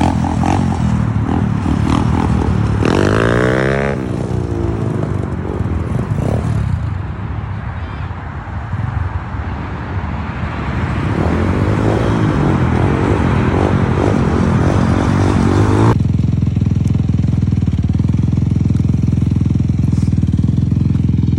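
Dirt bike engine running and revving, its pitch sweeping up and down about three seconds in. About sixteen seconds in the sound changes abruptly to a steadier, louder low engine rumble.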